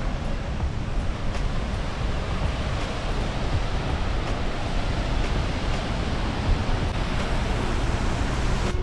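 Steady rushing roar of a waterfall, an even wash of noise heaviest in the low end.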